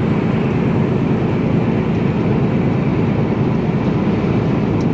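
Steady rumble of a Mercedes-Benz Actros lorry cruising on the motorway, heard inside the cab: engine and tyre/road noise with no change in pitch.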